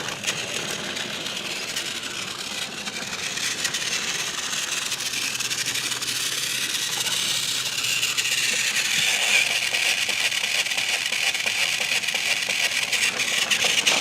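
Battery-powered TrackMaster snow-clearing Hiro toy train running along plastic track: a steady small-motor whir with a fine rattle of wheels on the track, growing a little louder past the middle.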